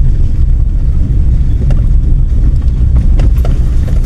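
Steady low rumble of a car driving, heard from inside the cabin, with a few sharp knocks or rattles.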